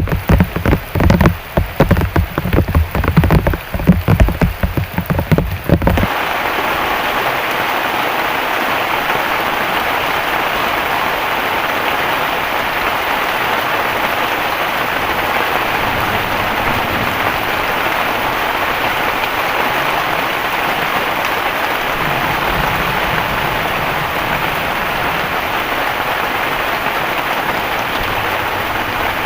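Heavy rain. For about the first six seconds large drops strike close by with loud, irregular thuds; then the sound switches abruptly to a steady, even downpour hiss.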